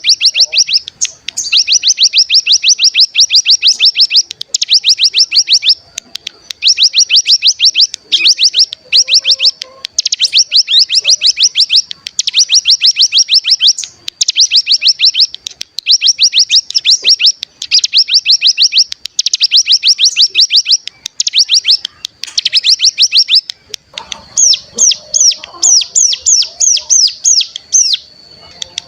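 Ciblek gunung (hill prinia) singing its 'bren', a fast, machine-gun-like rattle of high notes repeated in trills of a second or two with short pauses. The notes come slower and more separate over the last few seconds.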